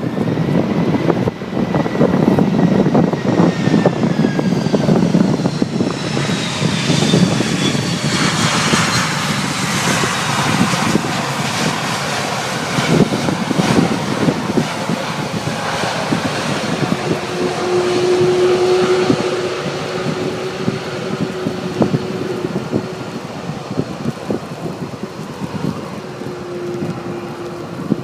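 Jet airliner's engines running as the aircraft moves past, their whine falling in pitch over the first several seconds, under heavy typhoon wind buffeting the microphone.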